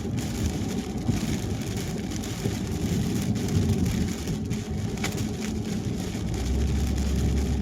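A car driving on a wet highway in rain: a steady wash of tyre and road noise with rain pattering on the car. A deeper drone of the road noise grows louder near the end.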